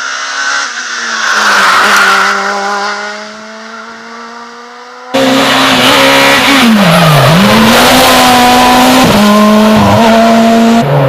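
Rally car engine at full throttle going past and fading away. A couple of seconds later a much louder, closer rally car engine cuts in abruptly, its note dropping and climbing again as the driver lifts and shifts through the gears.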